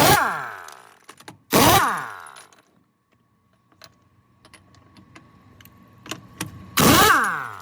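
Three heavy hammer blows on the steel wheel rim of a truck tyre, each followed by a metallic ring that falls in pitch and dies away within about a second, with a long pause before the third blow. Lighter metal clicks fall between the blows.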